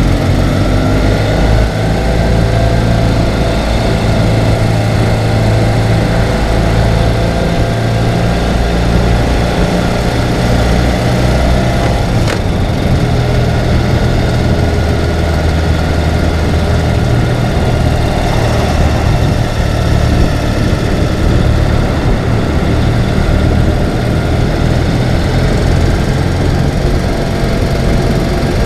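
Ural sidecar motorcycle's flat-twin engine running steadily while riding.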